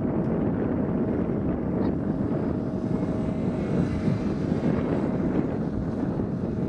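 Strong wind buffeting the microphone in a steady rumble, with an aircraft's engines running faintly underneath.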